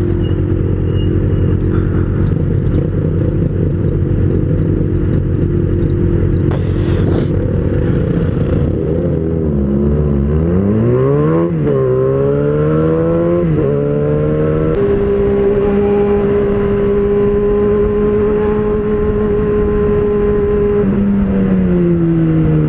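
Yamaha XJ6 inline-four motorcycle engine through a full aftermarket exhaust, heard from the rider's seat and running loud. It cruises steadily, drops off about nine seconds in, then revs up hard through two quick upshifts. It holds a steady cruise and eases off near the end.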